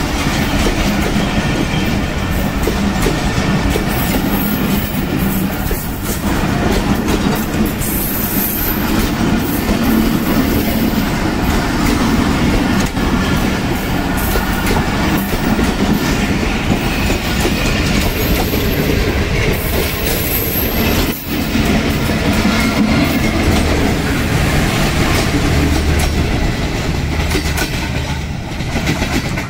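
Passenger coaches of a diesel-hauled express train rolling past close by, wheels clattering over the rail joints, with a few brief high wheel squeals. The sound eases slightly near the end.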